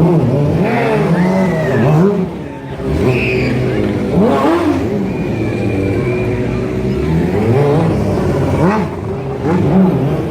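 Stunt motorcycle engines revving hard again and again, the pitch rising and dropping several times in quick succession.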